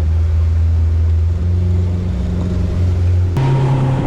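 Power boat's engine running steadily under way, a low even hum. About three seconds in the tone switches abruptly to a higher, steady pitch with more hiss.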